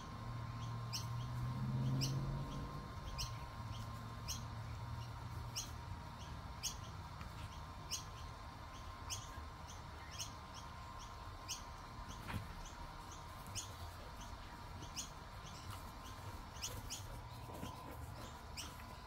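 A bird chirping over and over, a short high falling chirp about once a second, over a faint steady hum. A low drone swells briefly around two seconds in.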